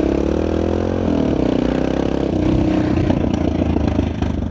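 Single-cylinder engine of a 1999 BMW F650 Funduro motorcycle, heard while riding. Its note climbs and then drops twice in the first few seconds as the bike shifts up through the gears.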